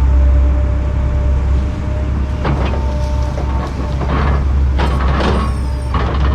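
Kobelco 210 excavator's diesel engine running steadily under load with a faint hydraulic whine. Over it come several bursts of cracking and snapping as brush and roots are ripped out of the ground, about two and a half seconds in and again near the end.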